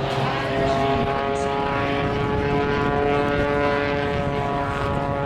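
Propeller airplane's engine droning overhead, a steady multi-toned buzz whose pitch sinks slowly as it passes.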